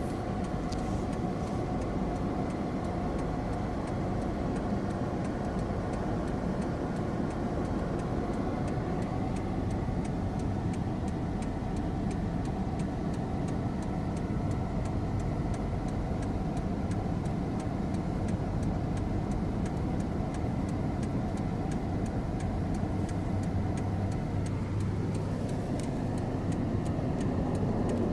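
A car's engine and road noise, running steadily, with faint regular ticking over it.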